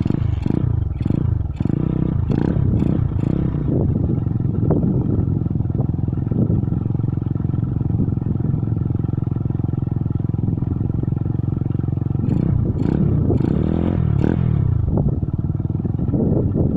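Strong wind gusting hard against the microphone, a loud steady rumble, with repeated clattering that comes thickest in the first few seconds and again about twelve to fifteen seconds in.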